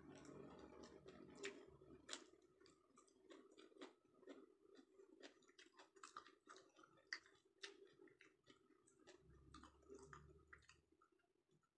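Faint, close-up chewing of sushi: many small, irregular wet mouth clicks and smacks over a low steady hum.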